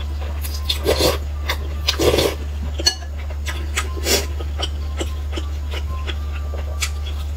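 Close-up chewing and crunching of a crisp fried pastry, with louder crunchy bites about 1, 2 and 4 seconds in and small crackles between, over a steady low hum.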